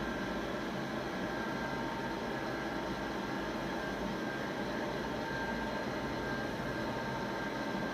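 CNC machine running steadily with its spindle set to 3000 rpm: an even mechanical noise with a faint steady high whine.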